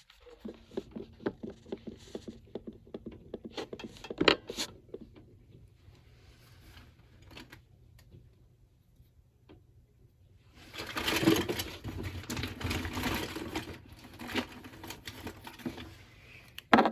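Colouring supplies being handled on a table: quick light clicks and taps, then a few seconds of rummaging and rattling about ten seconds in, ending with a sharp knock.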